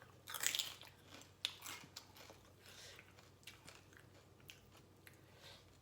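A person eating Lao-style papaya salad close to the microphone: crunchy bites and chewing, loudest in the first two seconds, then softer chewing with small mouth clicks.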